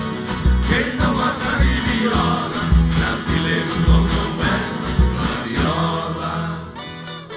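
Live Brazilian country (caipira) music from a string ensemble: strummed acoustic guitars over a steady bass beat. The playing thins out briefly near the end.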